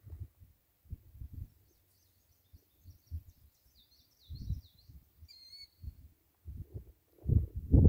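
Songbirds chirping, with a run of quick high chirps in the middle and one clear whistled call just after. Low buffeting on the microphone comes and goes and is loudest near the end.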